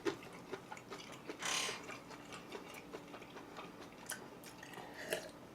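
Close-miked chewing and mouth sounds: soft, scattered wet clicks and ticks, with one short hissy noise about a second and a half in.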